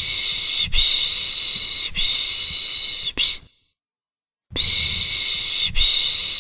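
Rhythmic 'piş piş' baby-soothing shushing, a long breathy 'shhh' made with the mouth. There are three strokes of about a second each and a short fourth, then a pause of about a second, and the strokes start again.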